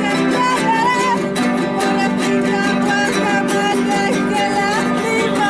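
Acoustic guitar music, picked and strummed in a steady rhythm, with a wavering melody line above it.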